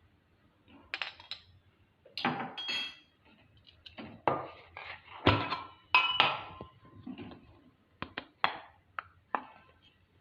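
A spoon clinking and scraping against ingredient containers and a mixing bowl while ingredients are spooned in: a series of separate clinks and knocks, some with a short ring.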